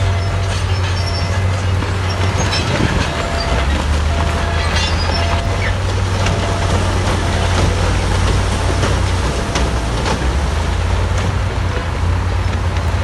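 Diesel engine of heavy earthmoving machinery running with a steady low drone, its pitch shifting slightly a few times, with scattered knocks and clanks over it.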